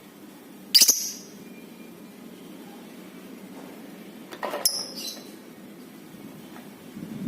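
Lovebird giving two short, shrill calls, about a second in and again around four and a half seconds in, over a low steady background noise.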